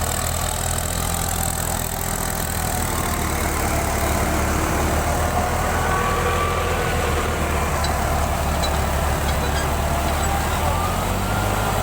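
Tractor diesel engine running steadily with a constant low hum.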